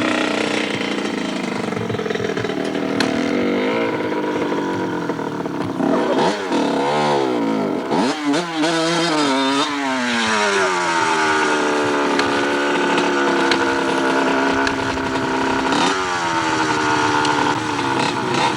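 Small two-stroke dirt bike engine running and revving, its pitch swinging up and down several times through the middle as the throttle is blipped and the bike pulls away, then holding at a steadier speed.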